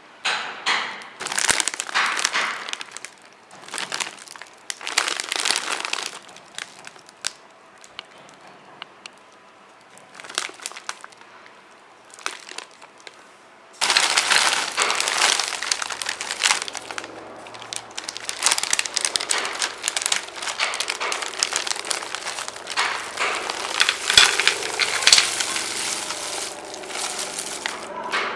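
Candy packaging crinkling and crackling in the hands as caramels are unwrapped, in irregular bursts that grow denser about halfway through, with a faint low hum underneath from then on.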